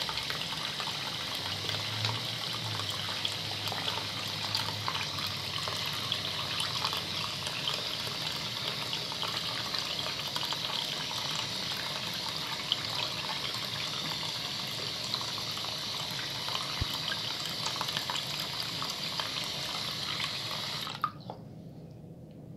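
Tap water running while a bar of soap is lathered between wet hands, with many small wet clicks and squishes. The water stops about 21 seconds in, leaving quieter wet squishing.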